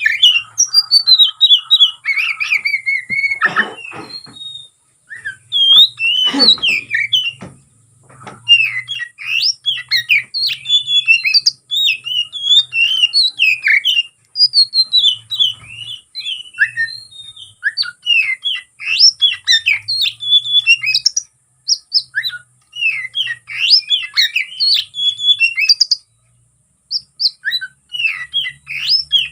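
Oriental magpie-robin (kacer) singing a rapid, varied stream of short chirps, whistles and mimicked phrases. This is the agitated 'konslet' fighting song that keepers play to provoke rival kacer. A few harsher, rasping notes come in the first seconds, and there are brief pauses about five seconds in and near the end.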